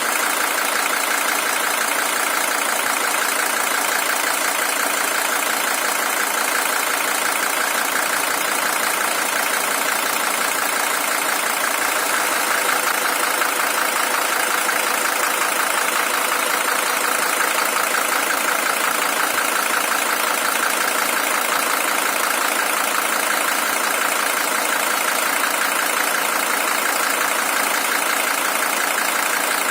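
Mercedes-Benz W123 300TD's OM617 five-cylinder diesel engine idling steadily with an even, rapid diesel ticking. This is the original engine at 620,000 km, warm after some forty minutes of idling.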